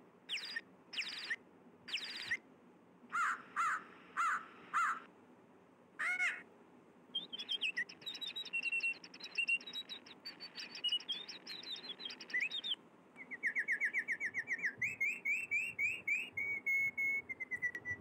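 Songbirds calling and singing. First come a few separate short falling calls, then a run of rapid chirps about halfway through, and in the last five seconds a fast, repeated trill.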